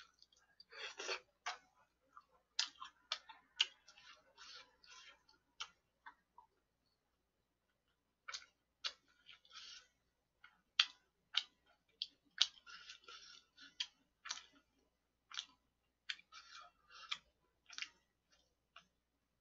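Close-miked eating sounds: a run of sharp mouth clicks and short, soft chewing noises, with a gap of about two seconds partway through.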